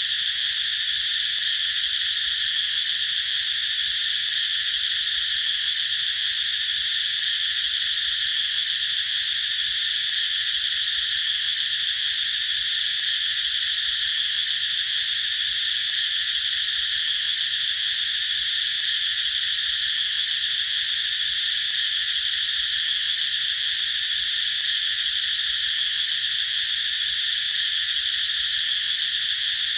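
A chorus of cicadas singing in one steady, unbroken high-pitched drone.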